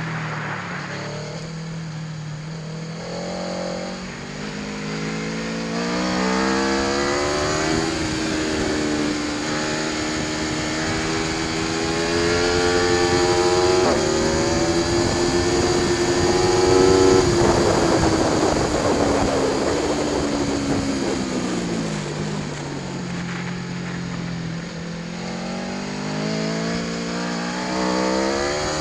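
Aprilia Tuono V4 1100 Factory's V4 engine pulling hard through the gears, its pitch climbing and dropping briefly at each upshift. About two-thirds in the revs fall steadily as the bike slows, then climb again near the end.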